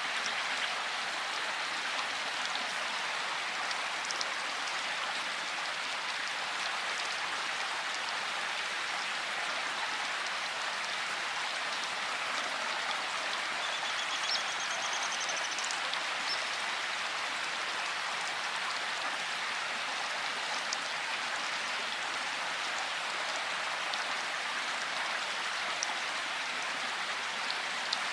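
Steady rain shower falling, an even hiss with scattered individual drops pattering on a surface. A faint high trill sounds briefly about halfway through.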